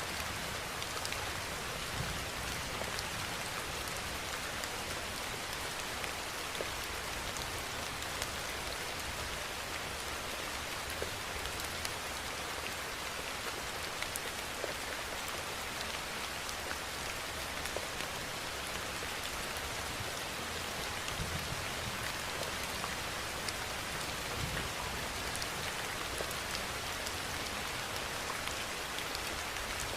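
Steady rainfall: an even, dense hiss of rain with many small drop ticks scattered through it.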